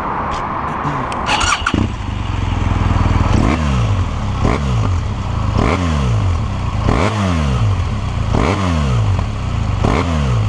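BMW R1200R's boxer twin engine cranked on the starter and catching about a second and a half in, then revved in six quick throttle blips, each rising sharply and dropping back to idle. The exhaust has a meaty sound.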